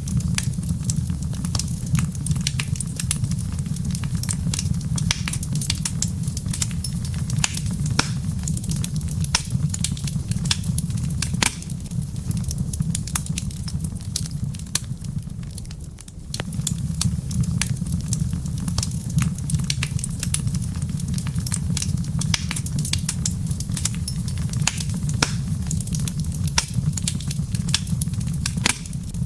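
Wood fire in a fireplace crackling, with many sharp pops and snaps over a steady low rumble. The rumble fades a little about halfway through, then comes back suddenly.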